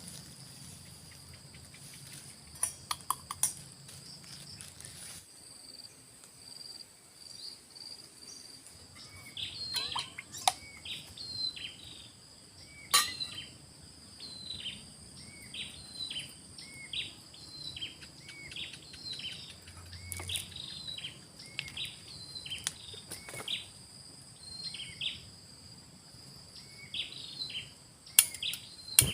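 Forest ambience: insects keep up a steady high drone while a bird repeats a short call about once a second from about nine seconds in. A few sharp clicks stand out above it.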